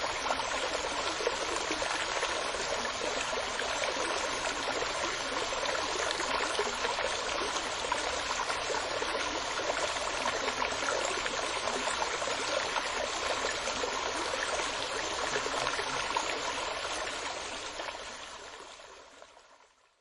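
Steady running water, like a flowing stream, fading out over the last two seconds.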